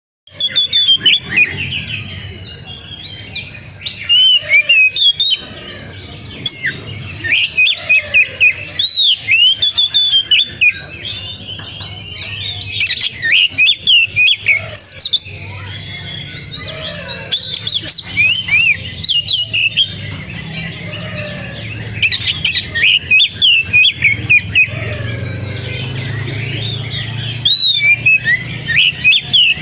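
Oriental magpie-robin (kacer) singing vigorously and without pause: a rapid, varied run of loud whistled notes, trills and glides, over a faint low hum.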